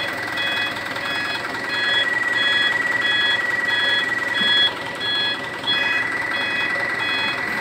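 A truck's reversing alarm beeps steadily, about twice a second, over a running engine.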